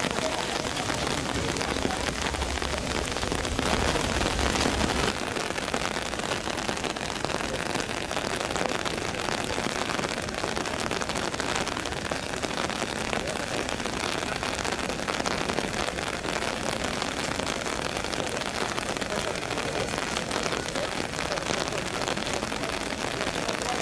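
Heavy rain falling steadily. A louder, deeper rush stops abruptly about five seconds in.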